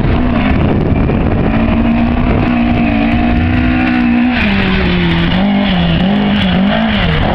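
Ford Escort Mk2 rally car's BDA twin-cam four-cylinder on individual throttle bodies, held at steady high revs. After about four seconds the revs drop and rise and fall unevenly for a few seconds, then climb again at the very end.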